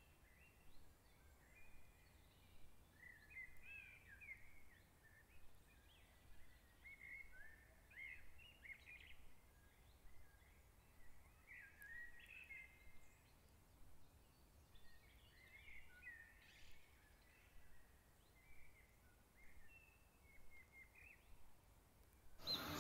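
Faint small-bird chirping and twittering: many short notes that rise and fall, over low background noise. Just before the end a much louder, deep sound begins.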